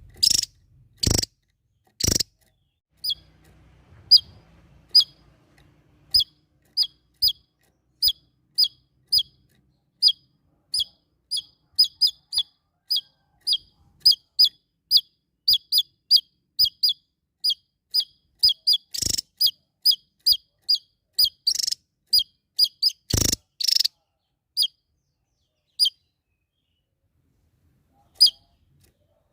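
Small songbird calling in long series of short, sharp, high chirps, about two to three a second, with a few louder piercing notes. This is the rapid repeated 'nembak' style that birdkeepers prize.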